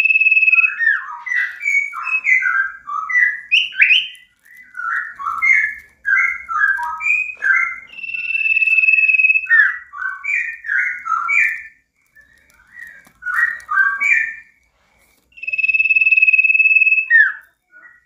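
Common iora (sirtu, cipow) singing: a long steady whistle held for about a second and a half, then a rapid run of varied short chirping notes. The long whistle comes back about eight seconds in and again near the end, each time followed by more quick chirps.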